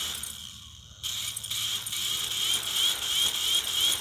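Small electric motor and gears of a fire-melted toy RC helicopter running with a high whine. The whine fades about half a second in and picks up again about a second in, and later carries a regular chirp about three times a second.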